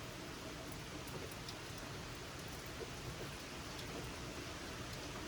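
Gentle summer rain falling steadily, an even hiss with no break.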